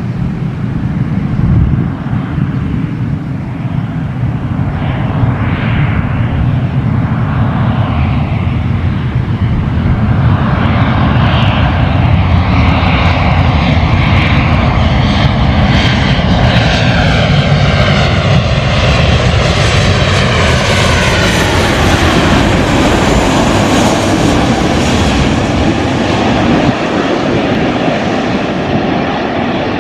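Jet airliner's turbofan engines on a landing pass, a loud rumble that grows over the first ten seconds, with an engine whine that falls in pitch as the aircraft goes by.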